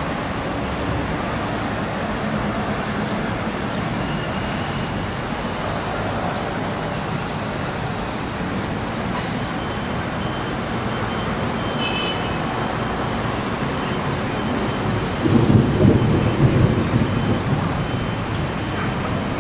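Steady city street traffic noise, with a louder low rumble for about two seconds near the end.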